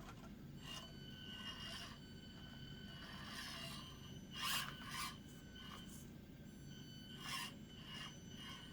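Axial SCX24 micro crawler driving over the course: a faint, thin high-pitched motor whine that comes and goes, with a few short scrapes of the truck rubbing over the obstacles about halfway through and again near the end.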